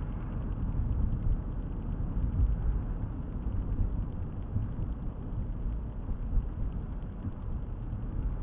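Car driving steadily, heard from inside the cabin: a continuous low rumble of engine and tyre road noise.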